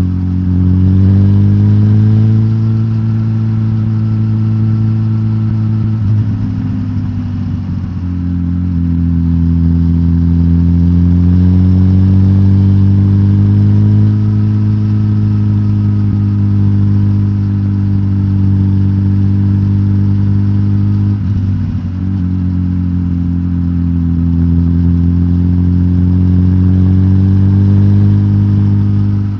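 Suzuki GSX-S1000GT's inline-four engine, decatted and breathing through its stock exhaust, running with its pitch rising and falling gently. There are short dips around a quarter and two-thirds of the way through.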